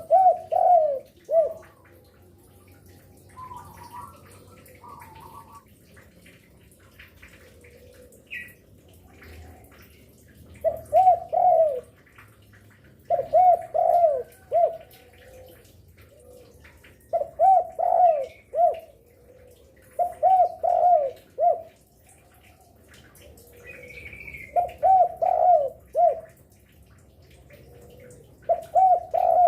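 Spotted dove (derkuku) cooing: phrases of three to four coos, repeated about every three to four seconds. A few faint, higher chirps from another bird come between phrases.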